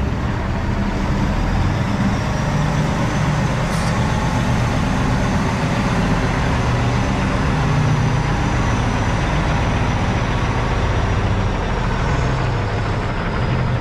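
A truck engine running steadily with a low, even hum.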